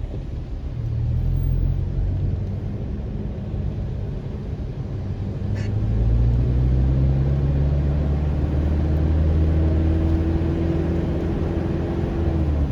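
Car driving, heard from inside: a low engine note and road rumble that grow louder about six seconds in, with the engine pitch climbing slowly and then dropping just before the end.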